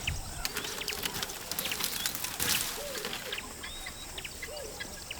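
Wild birds calling in the bush with many short chirps and slurred whistles over a steady high hum. There is a flurry of rustling about two seconds in.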